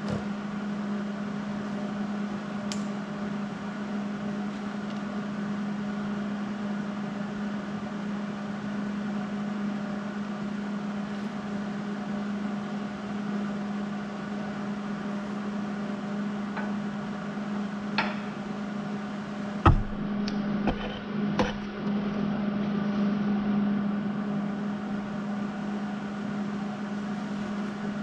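Steady machine hum, with a few sharp metal knocks about two-thirds of the way through.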